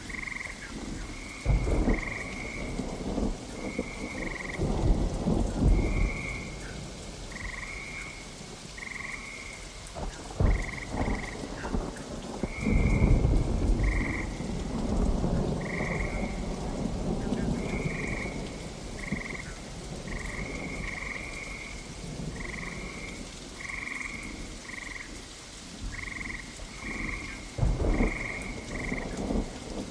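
Steady rain with several long rumbles of thunder, the strongest about a third and halfway through and again near the end. Frogs call throughout in short, high, repeated croaks, often in pairs, about one to two a second.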